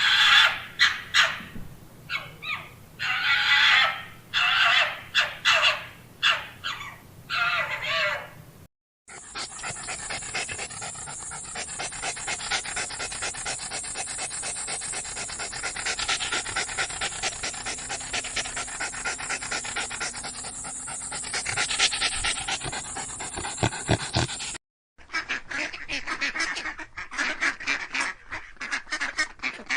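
Waterfowl honking and quacking, in three clips with abrupt cuts. The first clip has loud separate calls, the second a dense steady chatter of many birds calling at once, and the third rapid repeated calls.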